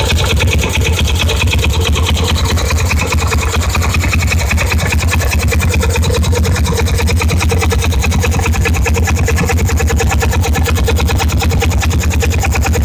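Ducati 450 Mark 3 single-cylinder engine idling steadily, its exhaust beat an even, rapid pulse.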